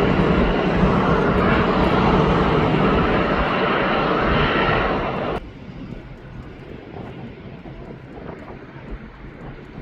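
Jet airliner engines roaring loudly as a plane passes, with a steady low hum under the roar; the sound cuts off abruptly about halfway through, leaving much quieter outdoor background.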